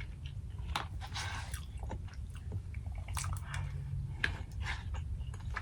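A person chewing food close to the microphone, with irregular wet, crackly mouth sounds, over a low steady hum.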